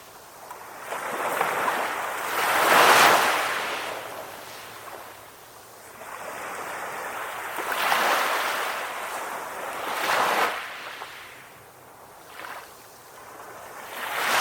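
Calm ocean waves: the hiss of water swells and fades in about four surges, loudest about three seconds in.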